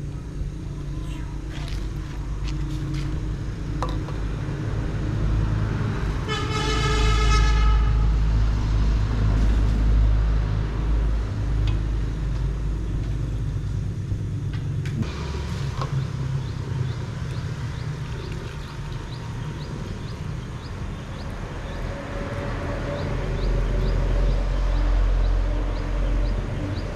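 A motorbike engine running steadily while riding, with a vehicle horn sounding once for about two seconds.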